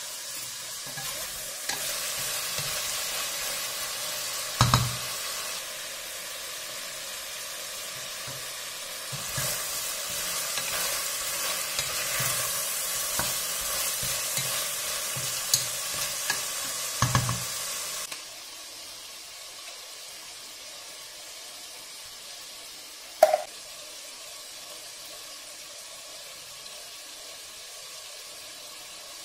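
Chicken pieces, onion and red pepper sizzling in oil in a stainless pressure cooker while a wooden spoon stirs them, knocking against the pot a few times. About eighteen seconds in the sizzling cuts off, leaving a quieter steady background with a single click.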